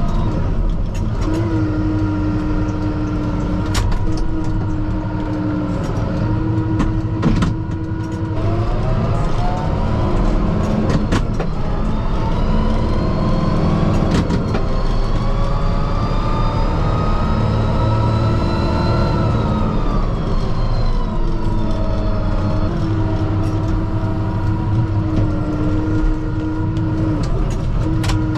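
Kubota M5-091 tractor's diesel engine running under load, heard from inside the cab. Its pitch rises from about nine seconds in, stays up, and falls back around twenty seconds. There are a few sharp knocks in the first half.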